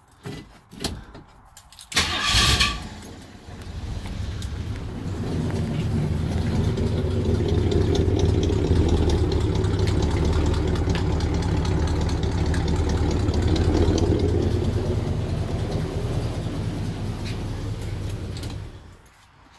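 AMC Ambassador's engine firing up with a short burst about two seconds in, then running steadily for about fifteen seconds before it is switched off near the end. It starts right up after earlier failing to start.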